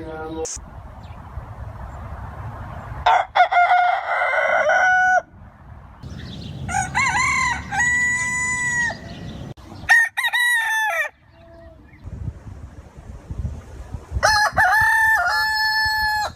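Rooster crowing: four separate cock-a-doodle-doo calls a few seconds apart, each a few pitched notes ending in a long held note.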